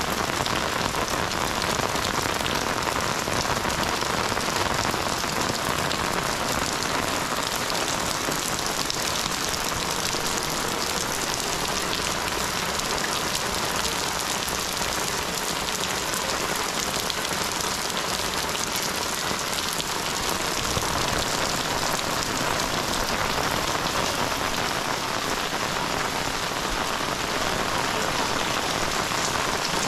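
Heavy rain falling steadily, a dense, even hiss of many drops that neither builds nor eases.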